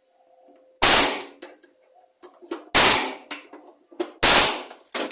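Pneumatic air hammer firing in three short, very loud bursts about a second and a half to two seconds apart, with a fourth starting at the very end, hammering on a bolt to knock a stuck blade carrier off a lawn mower's crankshaft.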